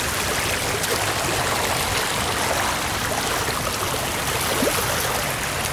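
Storm-flooded creek rushing steadily: a constant hiss of fast-flowing water.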